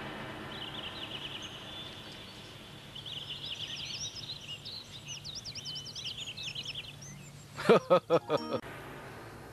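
Birds chirping in quick, rapid trills, then near the end a quick run of four or five short, loud, sharp sounds.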